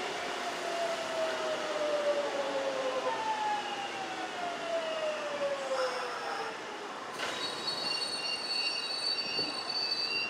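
Kintetsu electric train slowing down, its motor whine falling steadily in pitch, then a high, steady squeal of the brakes or wheels from about seven seconds in.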